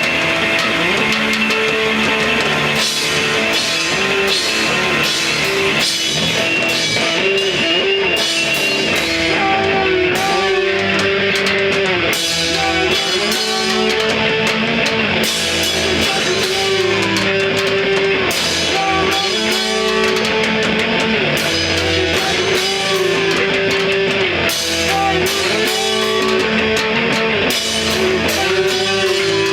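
Rock band playing live: guitar over a drum kit, with a sustained melodic line that bends in pitch.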